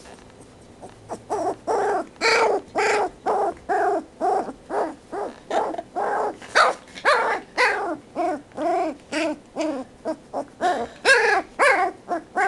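Two-week-old Doberman puppy making a long run of funny noises while being scratched: short pitched calls, each rising and falling, about two a second, which the uploader takes as a sign she likes it.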